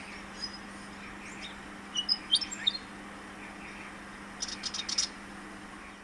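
Willie wagtail calling: a phrase of short, quick whistled chirps about two seconds in, then a brief rapid chatter near the end, over a faint steady low hum.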